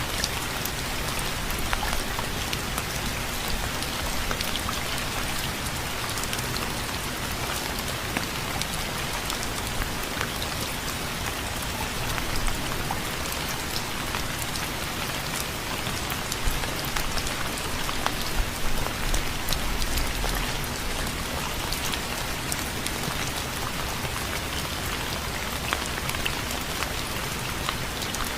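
Steady rain falling: a constant hiss with many separate drops ticking through it.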